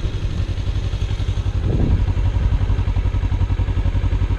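Kawasaki Ninja 300's parallel-twin engine running steadily while under way, a low even pulse at a constant speed.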